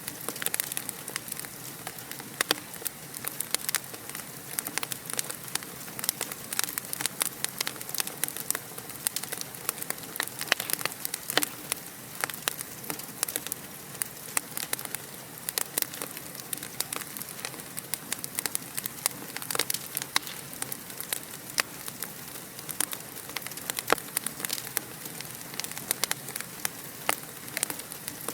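Fire crackling in a fireplace: a steady hiss with many sharp, irregular crackles and pops.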